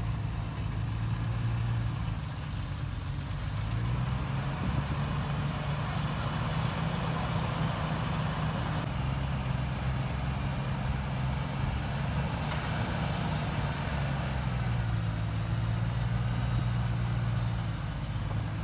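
Off-road 4x4 truck engine running as it drives a dirt trail, a steady low hum that shifts slightly in pitch with the throttle, under continuous tyre and road noise.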